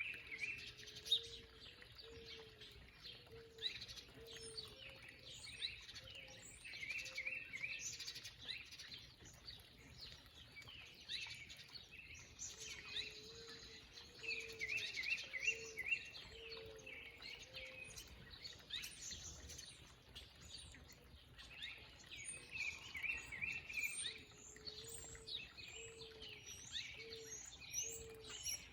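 Several songbirds chirping and singing, with a short rapid phrase repeating every few seconds and a low series of repeated notes running beneath it.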